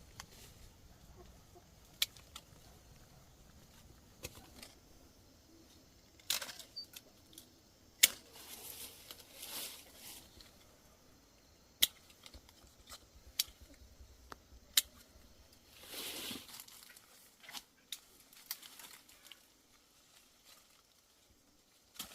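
Scattered sharp snaps and a few short bursts of dry rustling and crackling, as dry plant material is handled and broken.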